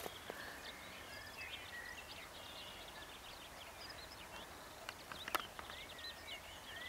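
Small birds singing and chirping over a faint, steady outdoor hiss, with a single sharp click about five seconds in.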